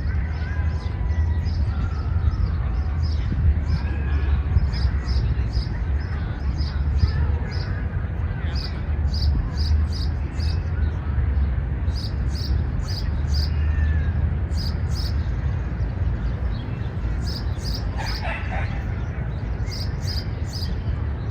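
City-park ambience: a steady low rumble of distant city traffic with faint far-off voices, over a quick, regular high ticking of about two to three ticks a second. A short, sharper call stands out about three seconds before the end.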